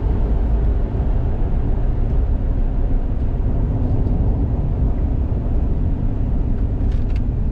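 A car driving at a steady speed: a low, steady rumble of engine and road noise.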